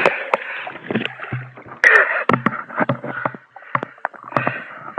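Sea water splashing and sloshing close by as someone swims, with many sharp little splashes; the loudest splash comes about two seconds in.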